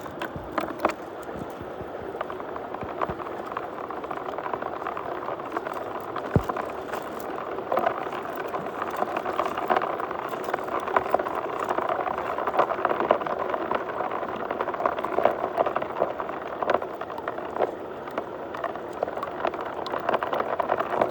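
Muddy water swirling and gurgling down a drain hole, a steady bubbling rush dotted with many small clicks and ticks, as of crushed stone knocking in the flow.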